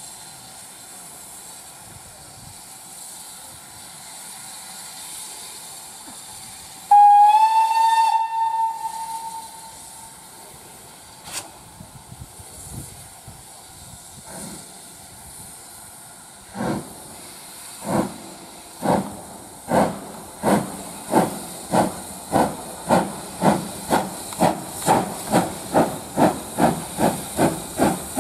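Steam locomotive standing with a steady hiss of escaping steam, then one whistle blast of about two seconds, the loudest sound. About ten seconds later it starts away: exhaust chuffs begin slowly and quicken steadily to about three a second.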